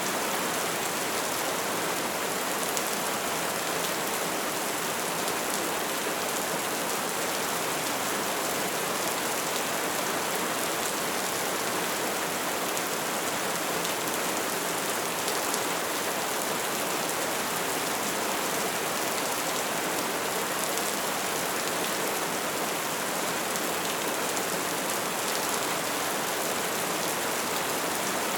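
Wood fire crackling steadily: a dense, even hiss of small crackles with the odd faint pop.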